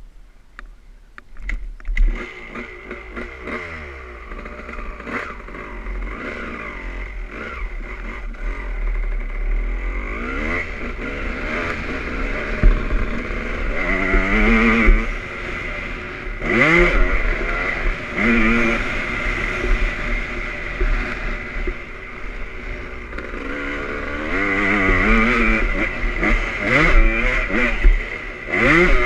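Honda CR250 two-stroke single-cylinder motocross engine running and being revved. After a few sharp clicks in the first two seconds the engine grows loud, and its pitch climbs and drops back again and again as the throttle is worked.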